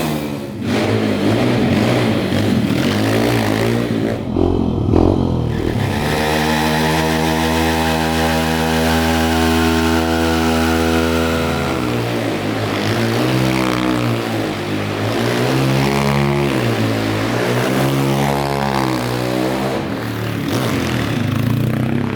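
150cc pit bike engine running under riding: it holds a nearly steady pitch for several seconds, then revs up and down repeatedly.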